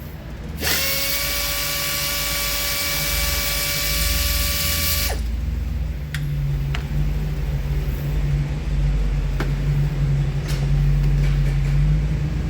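A power tool runs at a steady pitch for about four and a half seconds, starting just after the beginning, while parts are being removed from the engine bay. After it stops, a low steady hum continues with a few sharp clicks.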